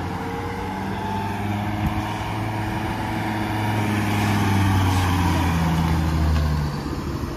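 Engine of a school service bus running close by as it pulls up, a low hum that grows louder and then drops off sharply near the end.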